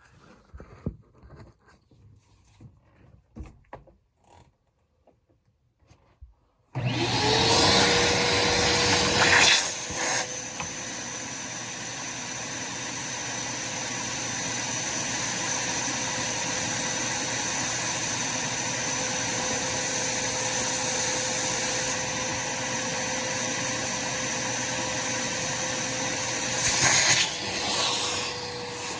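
Faint handling clicks, then about seven seconds in a vacuum cleaner is switched on: its motor spins up to a steady whine with a loud rush of air, sucking out the furnace's condensate drain line. The suction rushes louder for a moment just after start-up and again near the end.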